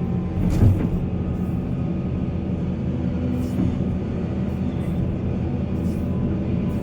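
Heavy diesel mining machinery running steadily under load, with a single clunk a little over half a second in.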